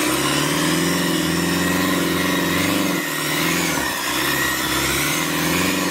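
A motor vehicle's engine running and revving unevenly, its pitch wavering up and down, with a brief drop in level about three seconds in.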